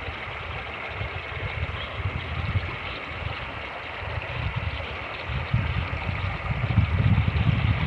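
Fast-moving creek rushing steadily, with wind buffeting the microphone in low, uneven gusts that grow stronger in the second half.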